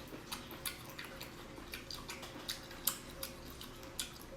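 Close-miked wet eating sounds: irregular small clicks and smacks of someone chewing spicy seafood, likely the octopus.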